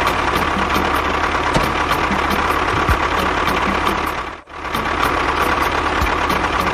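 Tractor-style engine running steadily, with a brief drop-out about four and a half seconds in before it carries on.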